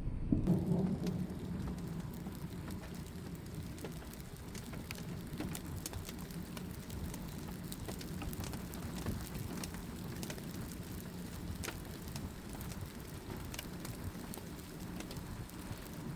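Steady rain with many sharp drop hits, and a low thunder rumble that is loudest in the first second or two and then fades under the rain.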